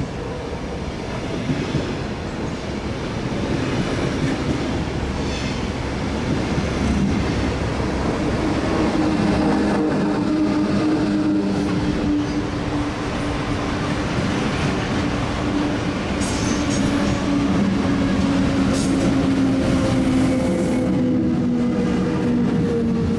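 Zurich S-Bahn double-deck push-pull train running past close by: a steady rumble of wheels on rail with occasional sharp clicks, growing louder over the first few seconds. About nine seconds in, a low electric hum joins and holds, sinking slightly in pitch near the end.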